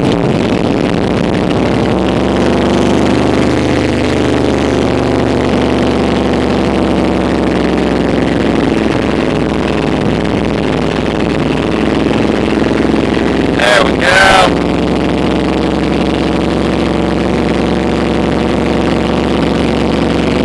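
Ford 302 small-block V8 running steadily just after a cold start in sub-zero temperatures, on choke. About two-thirds of the way in a brief, louder sound rises and falls in pitch over it.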